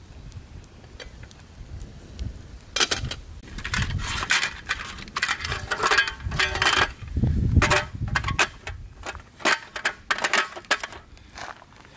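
Metal cookware clattering and clinking, a mess tin and utensils being handled, with dull knocks among the clinks. Quiet for the first few seconds, then a busy stretch of clatter that thins out near the end.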